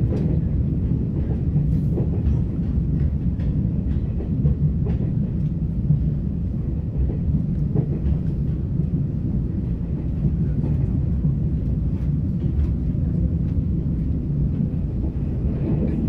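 Passenger train running, heard from inside the carriage: a steady low rumble with occasional faint clicks.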